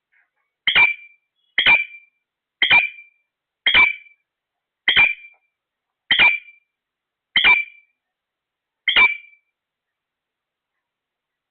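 A parrot giving eight short, shrill calls in a row, about one a second, then stopping.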